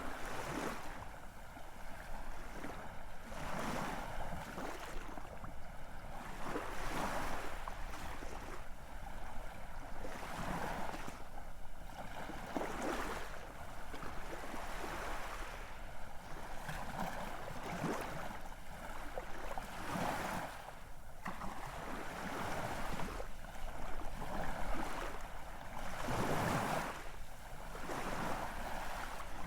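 Ocean waves washing in: a continuous surf noise that swells and eases every second or two.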